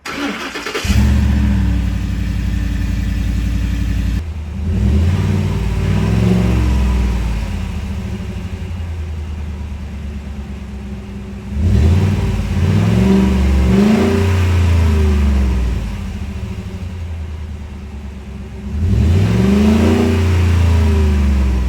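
A 2013 Ford F-150 Raptor's 6.2-litre V8 on its stock exhaust, cold-started: it cranks and catches about a second in, then runs at a steady high idle. It is revved three times, the pitch rising and falling each time.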